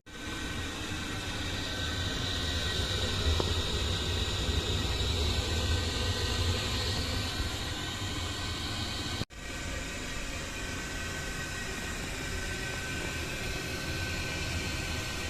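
Diesel oil burner of a Domusa boiler running steadily: a constant fan-and-flame noise with a low hum and a faint steady whine. It drops out for an instant about nine seconds in.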